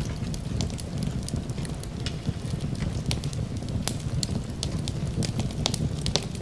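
Fireplace fire crackling, with frequent sharp pops and snaps of burning wood over a steady low rumble.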